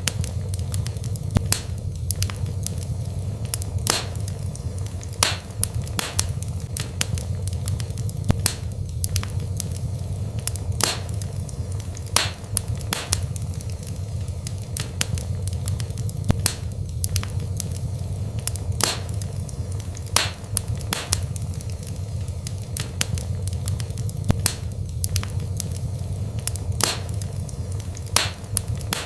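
Wood fire burning in a fireplace: a steady low rumble with frequent sharp crackles and pops, about one or two a second.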